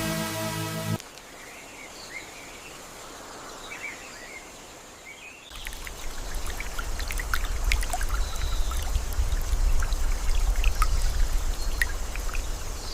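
Electronic music cuts off about a second in, leaving outdoor ambience with birds chirping. About halfway through, a louder low rumble sets in, with many scattered drips and ticks like running or dripping water.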